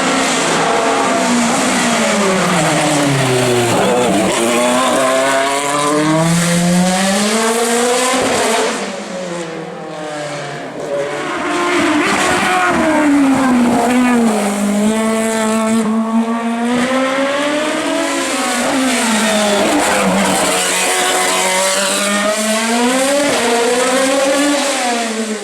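Hillclimb race car engine revving hard, its pitch climbing and falling again and again as the car shifts up and brakes down through the gears. It drops away for a couple of seconds about a third of the way in, then comes back loud.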